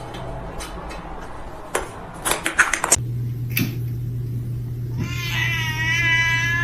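A cat giving one long, drawn-out meow, starting about five seconds in, over a steady low hum; a few clicks and knocks come before it.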